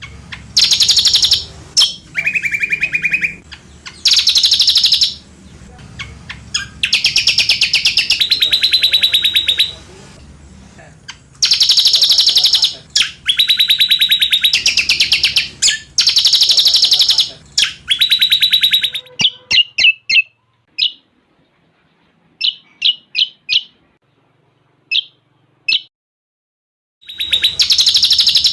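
Cucak combok birdsong from a song-training (masteran) recording with cililin song mixed in: fast, buzzy trilled phrases a second or two long, one after another, then a run of separate short sharp chips and a brief pause near the end before the trills start again.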